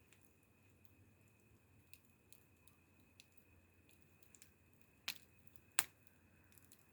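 Wood fire crackling softly, with scattered small snaps and two louder pops a little under a second apart near the end.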